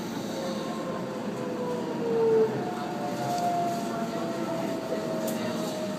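Keihan electric train slowing along a station platform, heard from inside the front car: the traction motors' whine falls slowly in pitch under braking, loudest about two seconds in, over the steady rumble of the running gear.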